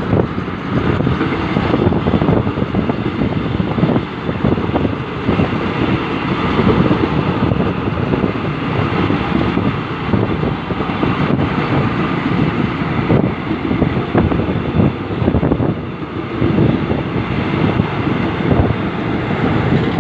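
Steady loud rumble of jet aircraft engines, mixed with uneven wind buffeting on the microphone.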